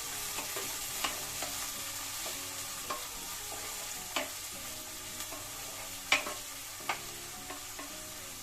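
Onion and ginger-garlic-chili paste sizzling in hot oil in a karahi as they are stirred. The spatula knocks against the pan now and then, loudest about six seconds in.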